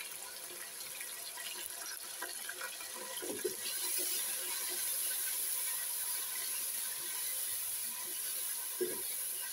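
Chicken pieces frying in oil in a pan: a steady sizzle that grows louder about four seconds in as the pieces are stirred with a wooden spatula, through the spice mix that has just been added.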